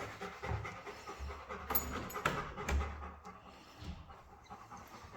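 A dog panting, fading after about three seconds.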